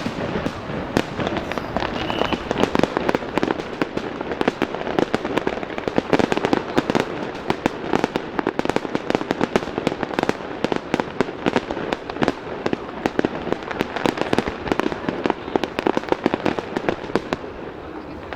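Fireworks display: a dense, continuous run of rapid bangs and crackling from many shells bursting in quick succession, easing slightly near the end.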